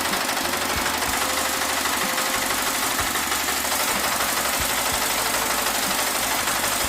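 300cc diesel motorcycle engine idling steadily with a knocking diesel clatter.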